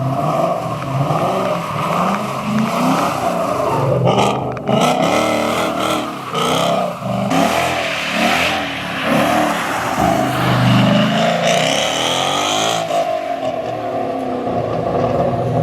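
A car's engine revving hard, rising and falling over and over, with tyre squeal from wheels spinning on pavement.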